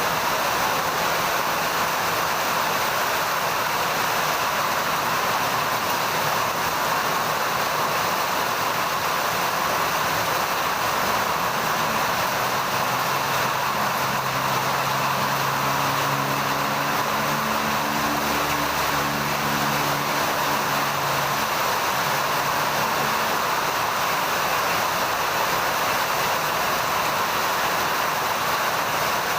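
Heavy rain falling steadily, a dense even hiss. For about ten seconds in the middle, a faint low hum of several tones sits beneath it.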